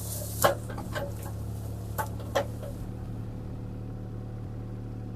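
CAT 303C CR mini excavator's diesel engine running steadily while the machine works a tree root. Several sharp knocks and cracks come in the first two and a half seconds, then the engine carries on alone.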